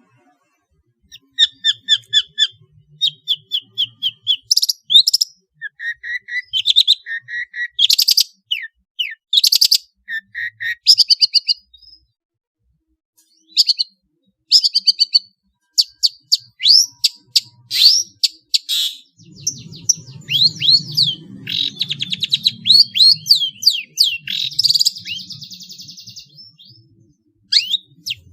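Long-tailed shrike (pentet) singing a rapid string of repeated chirps, trills and slurred notes, its song full of mimicked calls of other small birds such as house sparrows.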